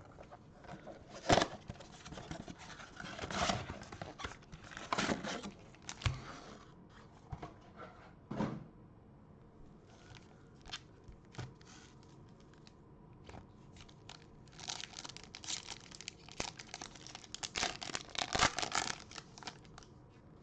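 Plastic and foil wrapping of a sealed box of baseball cards and its packs being torn open and crinkled by hand, in irregular bursts of crackling with the loudest tears about a second in and near the end.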